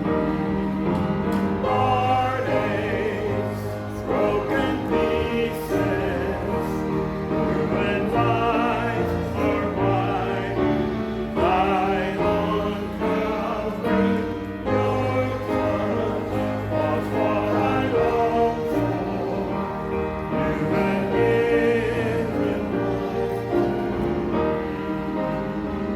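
A church choir or congregation singing a hymn with instrumental accompaniment.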